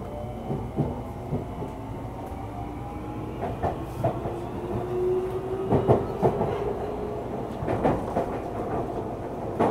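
Tokyu 3000 series electric train running, heard from inside the car: the traction motor whine rises slowly in pitch as the train accelerates, over a steady rumble. The wheels click over rail joints, the clicks coming more often and louder from about halfway in.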